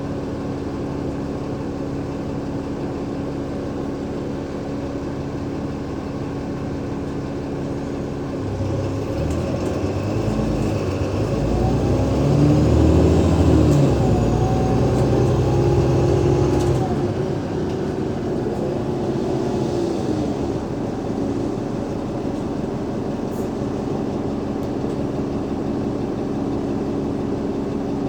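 Diesel bus engine, a Cummins ISL8.9, running steadily, then speeding up from about eight seconds in. Its note steps through gear changes of the ZF Ecolife automatic gearbox, with a whine rising and falling over it. After about seventeen seconds it settles to a steadier, quieter run.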